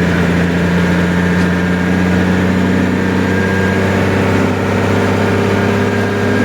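A large engine running steadily at an even idle, a low hum with no change in pitch.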